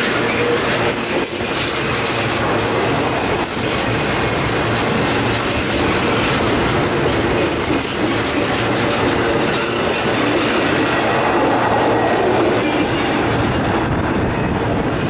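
Freight train cars rolling slowly past on the rails: a steady rumble with the wheels clicking over the rail joints.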